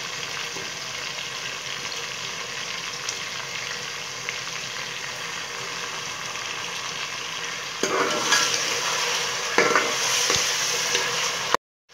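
Chicken pieces frying in oil with garlic-ginger paste in a metal pot, a steady sizzle. From about eight seconds in, a steel ladle stirs and scrapes against the pot and the sizzle grows louder; the sound cuts out for a moment just before the end.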